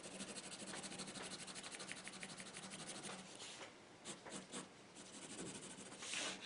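Pencil scratching on paper in quick back-and-forth strokes, faint and dense for the first few seconds, then a short pause followed by a few separate strokes and one firmer stroke near the end.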